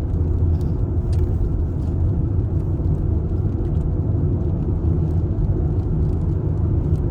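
A vehicle driving along the road: a steady low rumble of engine and tyre noise.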